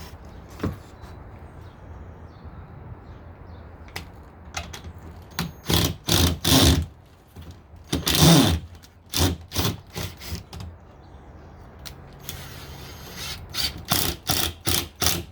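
Short, uneven bursts of mechanical clicking and rattling, a few at a time, from mounting a wooden birdhouse in place.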